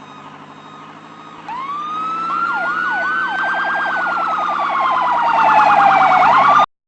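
Fire engine sirens starting about a second and a half in over a steady engine hum: a wail climbing then slowly falling, three quick yelps, then a fast-pulsing siren tone layered over the wail. The sound cuts off suddenly near the end.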